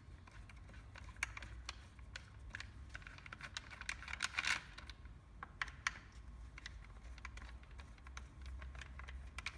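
Irregular light clicks and taps of an Allen key unscrewing the four cover bolts on a cordless fencing stapler, over a faint steady low hum.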